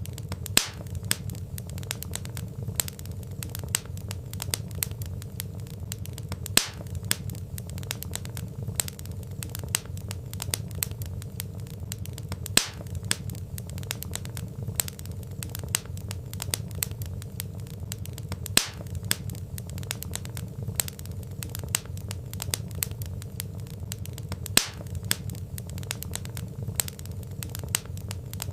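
Log fire crackling: a steady low rumble of flames with many quick snaps and pops, and a louder pop about every six seconds.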